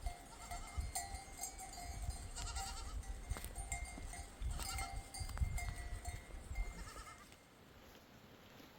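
Bells on a flock of goats and sheep clinking and ringing irregularly as the animals move, over a low rumble, fading near the end.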